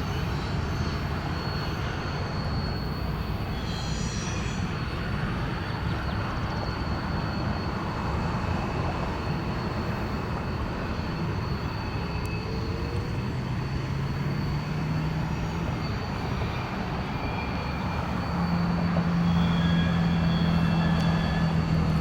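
Freight train's diesel locomotives approaching, a steady rumble with a low engine drone that grows louder near the end.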